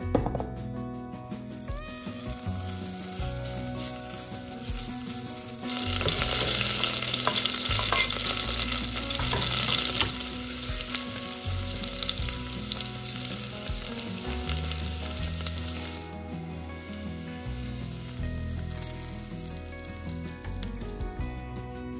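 Butter and minced garlic frying in a stainless steel pot. The sizzle is quiet at first, turns loud about six seconds in, and stops abruptly about ten seconds later.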